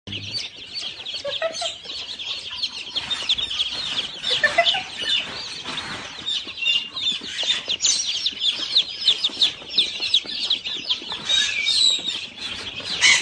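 Many birds chirping at once: a dense, unbroken chorus of short, high calls overlapping, with a few lower calls about four seconds in.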